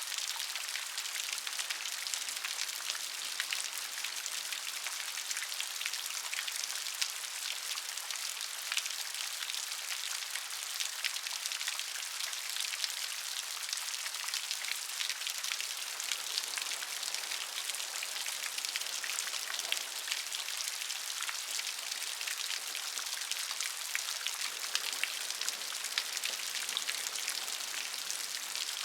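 Steady rain, with many small drops pattering as fine crisp ticks over an even high hiss and almost no low rumble.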